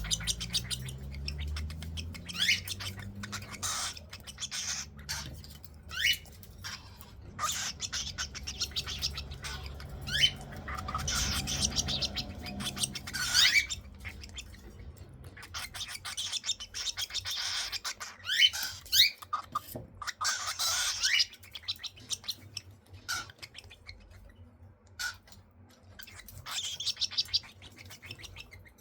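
Young cockatiels calling: repeated raspy screeches mixed with short rising chirps, coming every second or two.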